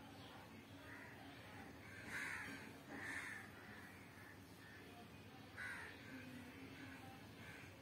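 Birds calling: several short calls, the loudest about two and three seconds in, another near six seconds, over a faint background.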